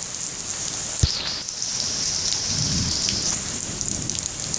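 Heavy rain pouring down in a steady hiss, with drops ticking close by. There is a single sharp thump about a second in and a low rumble in the second half.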